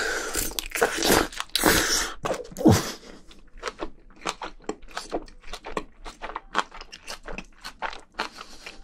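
Close-miked eating of spicy braised seafood with bean sprouts and rice. For about the first three seconds the spoonful goes in with loud, noisy mouth sounds. Then comes steady chewing with crisp crunches, about four a second.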